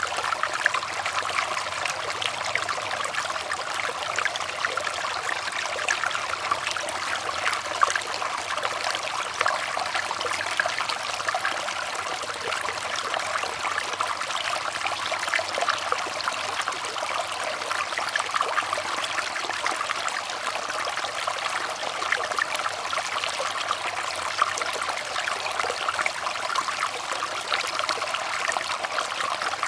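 Running water trickling steadily, a continuous babble of many small splashes and drips.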